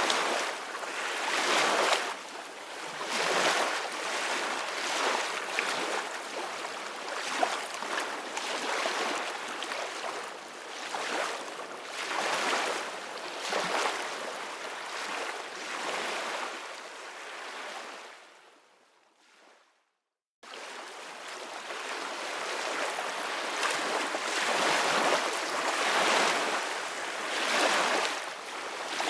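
Ocean waves washing in, in repeated surges of surf noise. About two-thirds of the way through, the sound fades away to a brief silence of under a second, then the waves cut straight back in.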